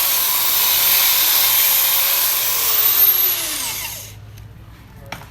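A power tool's motor runs at speed with a loud hissing whine. It is switched off about two and a half seconds in, and its whine falls in pitch as it spins down to a stop over the next second and a half.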